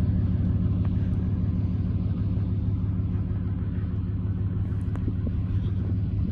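Pickup truck engine idling steadily with a low, even rumble, left running to charge the battery.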